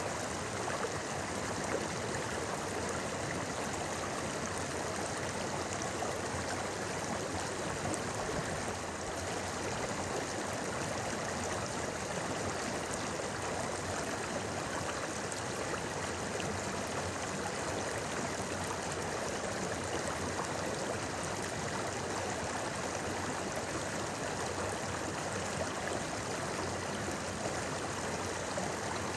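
A shallow mountain stream flowing over rocks: a steady babble of running water.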